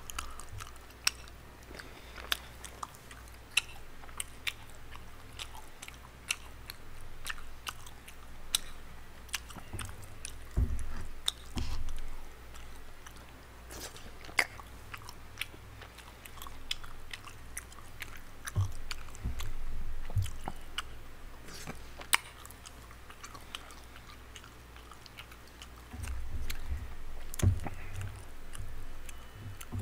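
Close-miked chewing and mouth sounds of a person eating tteokbokki rice cakes, with many irregular sharp clicks and smacks.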